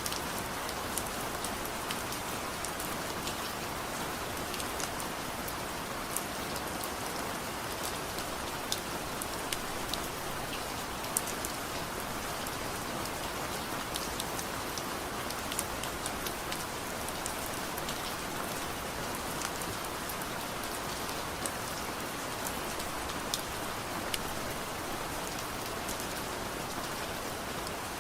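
Soft rain falling steadily, with scattered sharp ticks and crackles over the even patter.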